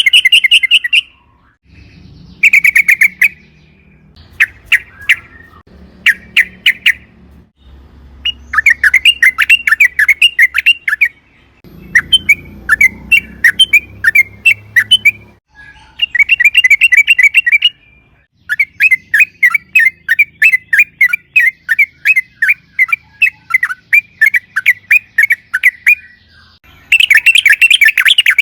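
Yellow-vented bulbul (trucukan) singing: bursts of rapid, bubbling chattering notes in phrases of varying length, with one long rolling phrase lasting several seconds past the middle.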